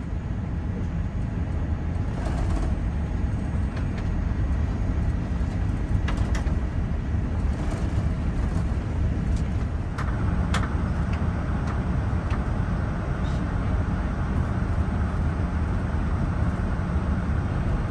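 Boeing 787-9 cabin noise while taxiing in after landing: a steady low rumble of the engines and air system with a few light rattles and clicks from the cabin. A hiss grows a little louder about ten seconds in.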